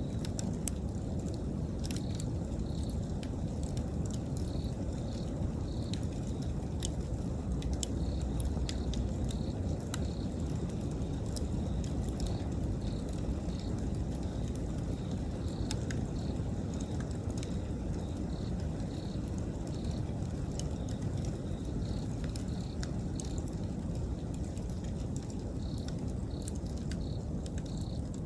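Wood fire burning with a steady low rushing and frequent sharp crackles and pops. A high insect chirp repeats irregularly behind it, about once or twice a second.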